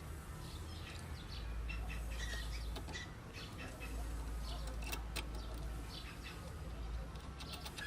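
Birds chirping in short, scattered calls over a low steady rumble, with a few brief clicks.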